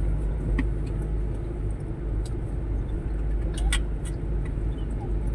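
Steady low rumble of motor vehicle engines in street traffic, with a few short sharp clicks.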